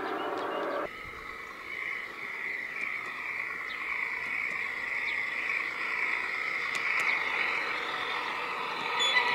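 A chorus of frogs calling, a steady pulsing trill of many voices. About a second in, a model train's running sound cuts off abruptly, leaving the frogs.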